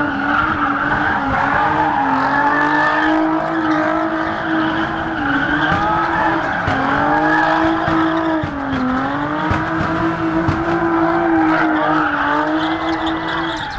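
Car engine revved hard and held at high revs, wavering slightly as the throttle dips, with tyres squealing as the car spins donuts.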